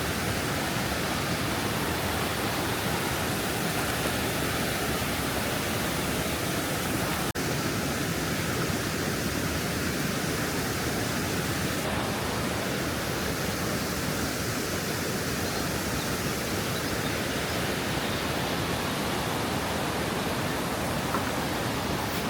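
Waterfall on a river, water rushing over it in a steady, unbroken roar.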